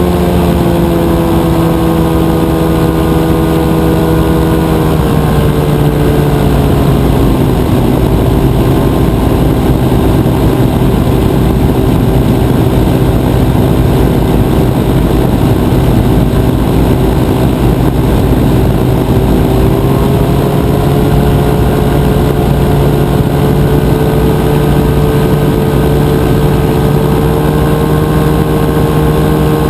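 Rotax 582 two-stroke twin on a powered parachute, running steadily with its propeller. The pitch drops as the throttle is eased back about five to seven seconds in, then rises again from about twenty seconds on.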